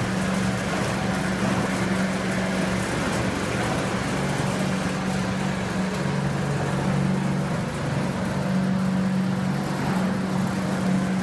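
Garb-el GHV-1000 10-horsepower hammermill garbage disposal running steadily while grinding apples, a constant low hum under an even rough noise.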